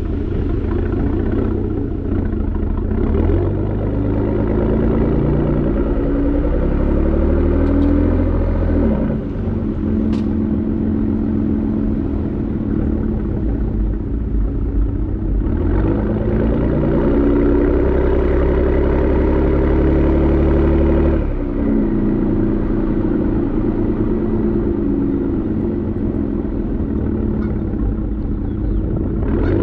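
Exhaust of a Ford Raptor's twin-turbo V6 through a Borla Atak aftermarket exhaust, heard from the rear while the truck is driven. The engine note rises and falls with throttle, dropping off about nine seconds in and again about twenty-one seconds in.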